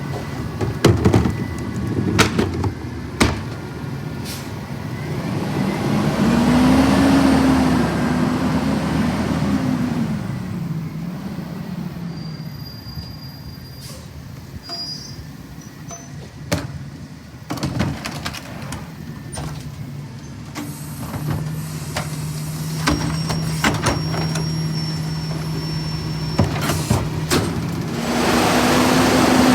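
Autocar ACX CNG rear-loader garbage truck running, with several sharp knocks and clanks in the first few seconds. Its engine revs up and back down about six seconds in and again near the end, with a steady hum in between.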